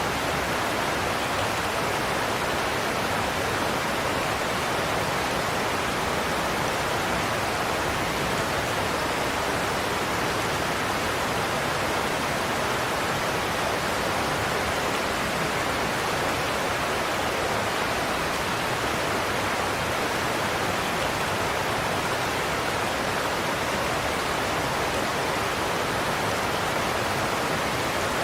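Godafoss waterfall, a steady, even rush of water pouring over the falls.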